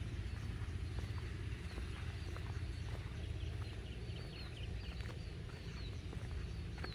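Footsteps walking on a path, as a series of soft clicks, over a steady low rumble, with birds chirping in short repeated calls from about halfway through.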